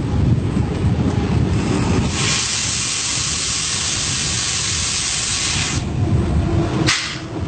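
Train running with a low rumble, then a loud steady hiss of air for about three and a half seconds that stops abruptly, followed by a sharp click near the end.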